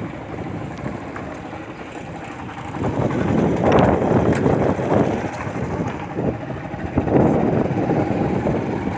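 Motorcycle running while riding, with wind buffeting the microphone; the wind noise swells louder about three seconds in and again about seven seconds in.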